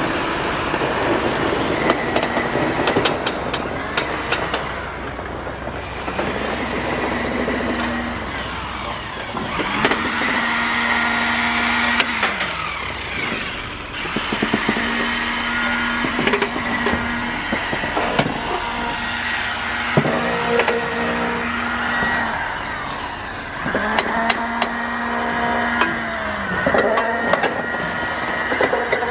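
Heavy construction machinery running, its engine note dipping and rising back every few seconds, with scattered knocks and clanks.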